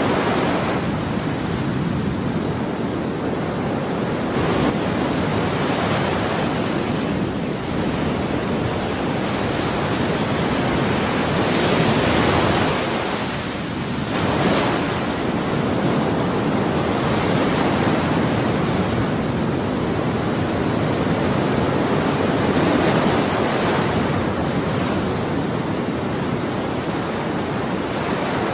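Ocean waves breaking and washing on a shore: a continuous rushing surf with slow swells, the brighter surges coming every few seconds.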